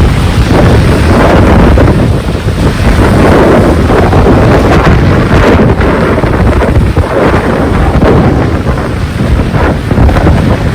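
Strong gusting wind buffeting the microphone in heavy rain: a loud, uneven rush that swells and dips.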